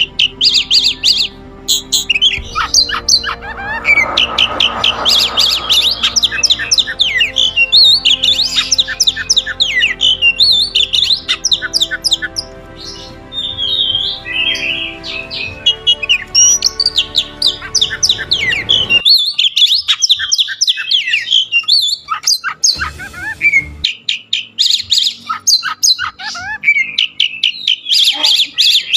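Oriental magpie-robin (kacer) singing continuously: a rapid, varied run of whistles, chirps and harsh notes. Background music plays under it and stops about two-thirds of the way through.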